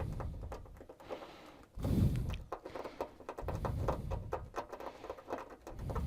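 Small clicks, taps and scrapes of a hand tool working on a TV's LED backlight strip, with several low handling thumps.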